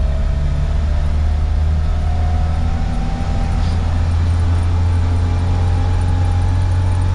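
1972 Land Rover Series III's petrol engine and drivetrain running under way, heard from inside the cab: a steady low drone with a thin whine that slowly rises in pitch as the vehicle gathers speed.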